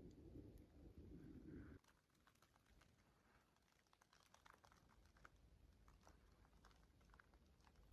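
Near silence. A low rushing noise cuts off suddenly about two seconds in, leaving faint, scattered small ticks and crackles.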